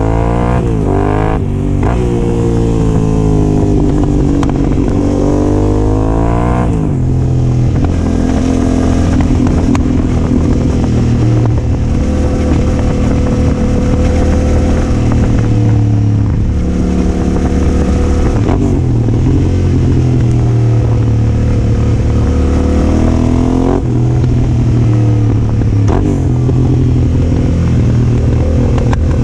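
Yamaha Ténéré 700's parallel-twin engine breathing through a Yoshimura R-12 exhaust while riding. The revs climb and drop through several gear changes in the first seven seconds, then hold fairly steady with small rises and falls.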